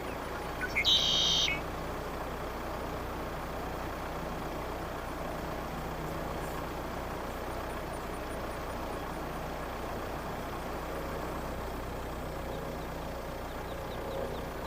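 Car running at low speed, a steady engine and road hum. A brief high-pitched sound cuts in about a second in.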